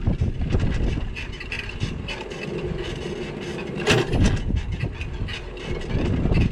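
Wind buffeting the microphone of a camera riding on a moving bicycle, easing off in the middle, with a faint steady tone and one sharp click about four seconds in.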